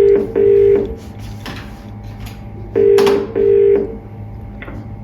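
British telephone ringing tone on an outgoing call not yet answered: two double rings, each a pair of short steady buzzing tones, the second pair about three seconds after the first.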